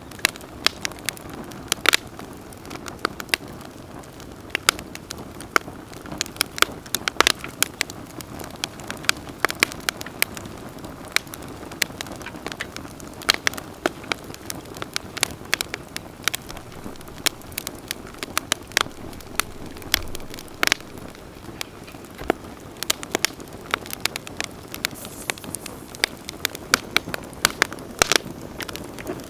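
Wood campfire crackling, with many sharp, irregular snaps and pops over a steady low hiss of burning.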